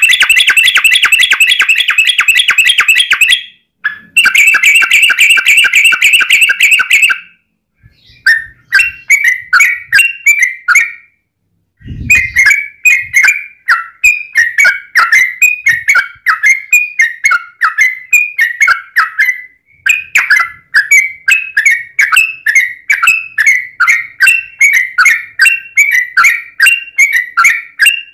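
Yellow-vented bulbul (trucukan) song: two long, very fast runs of notes, then after a short pause a steady series of repeated chattering phrases. There is a brief low thump about twelve seconds in.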